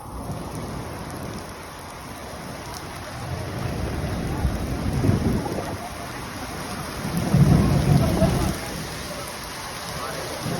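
Heavy rain falling steadily, with thunder rumbling twice, the second roll, about seven to eight seconds in, the louder.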